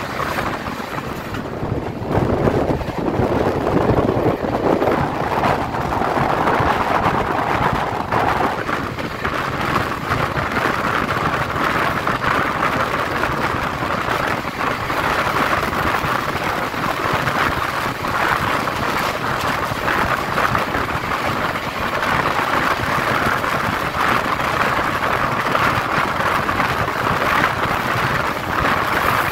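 Steady running noise of an express passenger train in motion, heard from on board: a continuous rush and rumble with no break. About eight seconds in, the rushing shifts a little higher in pitch.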